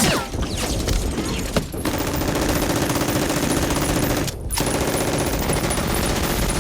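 Movie-soundtrack automatic gunfire: a sustained rattle of rapid shots running together, with a brief break a little past four seconds in.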